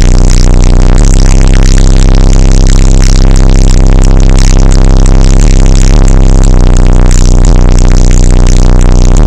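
Car sound system playing electronic music at full volume, with deep sustained bass and a beat about once a second; the recording is pinned at maximum level.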